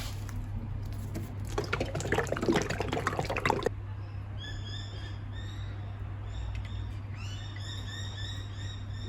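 Clattering handling noise for the first few seconds, then a bird chirping over and over in short, quick notes above a steady low hum.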